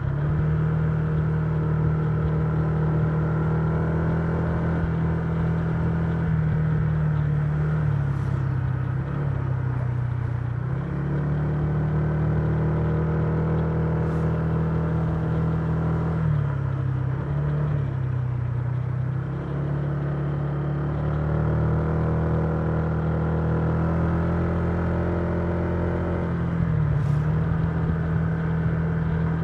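Honda Giorno 125 scooter's single-cylinder engine heard from the rider's seat, running at cruising speed over road and wind noise. The engine note sinks three times as the throttle is eased, about a third of the way in, past halfway and near the end, and picks up again each time.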